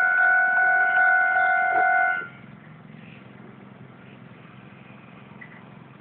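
Japanese railway level-crossing warning bell ringing its steady electronic tone, then cutting off suddenly about two seconds in as the alarm ends. Afterwards only a faint low hum remains.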